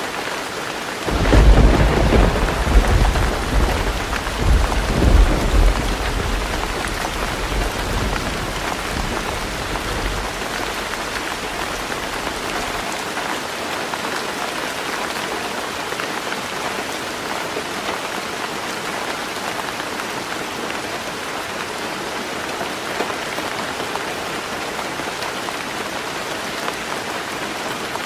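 Heavy rain falling steadily on a roof. About a second in, a peal of thunder breaks in, rumbling in several swells over the next few seconds and dying away by about twelve seconds in.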